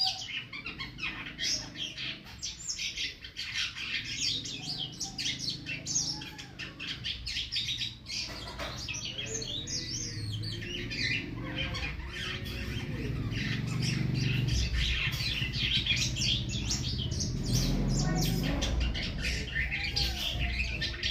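A jalak sutra starling singing without pause: a rapid, varied run of chirps, whistles and harsh squawks. A low rumble grows underneath in the second half.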